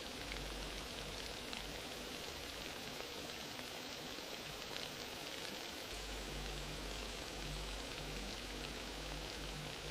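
Wood fire crackling: a steady hiss dotted with many small, quick pops.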